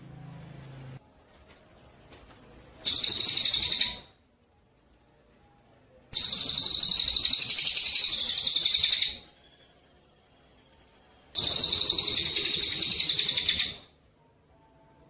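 A 'gereja cililin' songbird singing three loud, rapid, high-pitched trills with pauses between them: a short one about three seconds in, a longer one of about three seconds, and another of about two and a half seconds near the end. Faint thin chirps sound in the gaps.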